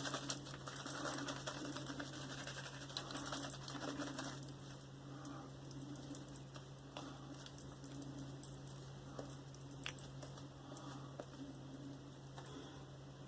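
Faint scratchy crackling with many light clicks from wet shaving at the face, over a low steady hum.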